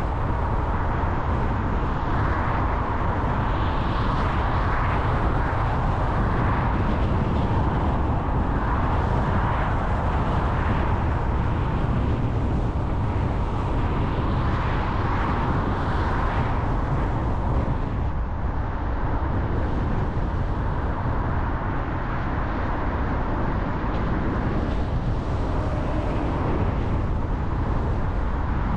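A car on the move: a steady low road and engine rumble under a rushing noise that swells and fades every second or two.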